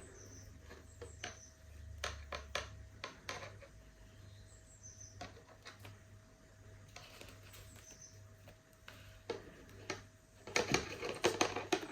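Scattered light taps and clicks of a small plastic pot being handled while a tarantula is coaxed out of it, with a quick run of louder taps near the end, over a faint steady hum.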